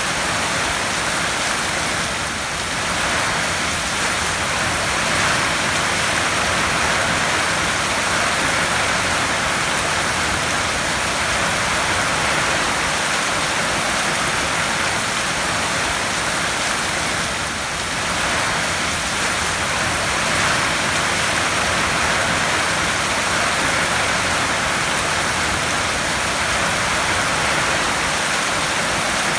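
Heavy rain falling steadily on a tin roof, easing slightly for a moment twice.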